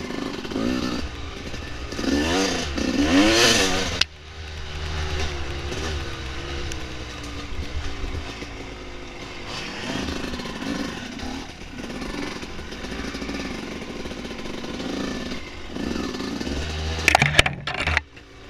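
Dirt bike engine running under the rider's throttle, revving up and down hardest about two to four seconds in, then running steadier. A few sharp knocks and clatter come near the end.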